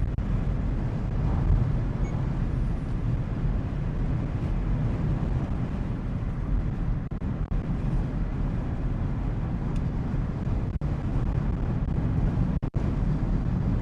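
Car driving at highway speed on a snowy road, heard from inside the cabin: a steady low rumble of road, engine and wind noise. The sound cuts out very briefly twice near the end.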